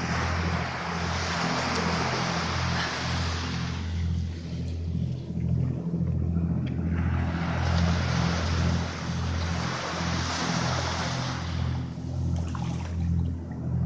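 Small waves washing up the beach and drawing back, two surges a few seconds long, over a low continuous hum.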